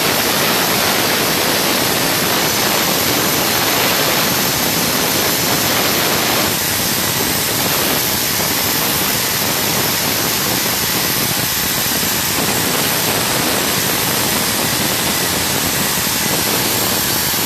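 Hangzhou Fortune oxygen generator running, giving a loud, steady, even hiss of rushing air or gas.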